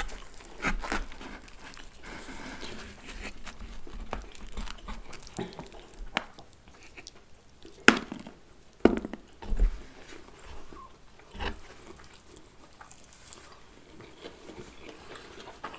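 Mouth sounds of pizza being bitten and chewed, soft and irregular. A few sharp clicks and knocks come through, the loudest about eight seconds in.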